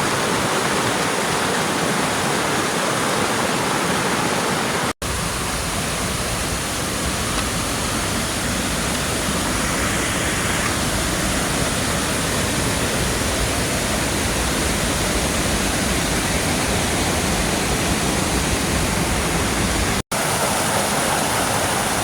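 Waterfall rushing: a loud, steady roar of falling water. It drops out briefly twice, about five seconds in and near the end, and has a deeper rumble in the middle stretch.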